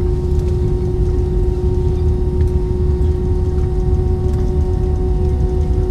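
Steady cabin noise inside an Airbus A320 on the ground with its IAE V2500 turbofans running: a constant low rumble with a steady engine hum over it.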